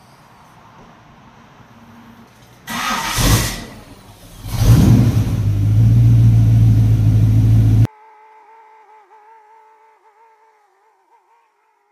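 Countach replica's engine started up: a loud burst about three seconds in, then a second surge a second later that settles into loud steady running. The running cuts off suddenly a few seconds later, leaving only a faint, steady, slightly wavering hum.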